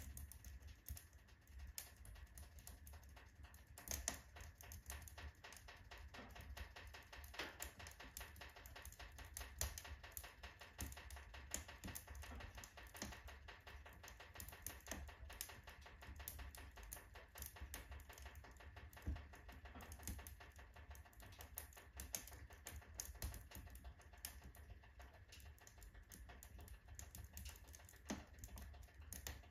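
Firewood crackling in a wood-burning stove with a full firebox: irregular sharp crackles and pops, several a second, some louder than others.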